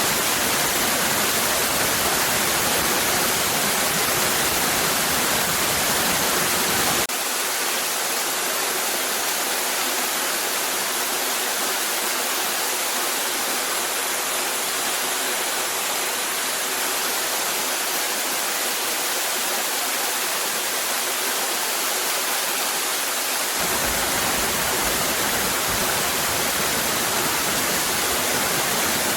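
Cascading waterfall, water rushing steadily. About seven seconds in the deep rumble drops out abruptly, leaving a thinner, hissier rush, and it comes back about three quarters of the way through.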